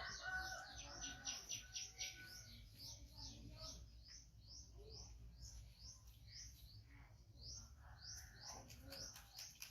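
A small bird chirping over and over, short high rising chirps about two a second, quicker and louder in the first couple of seconds.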